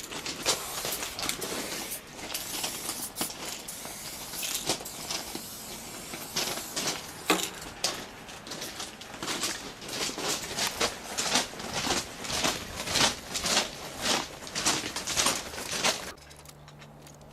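Aerosol spray paint cans hissing in many short bursts, one after another. About sixteen seconds in the hissing stops abruptly, leaving a quieter steady low hum.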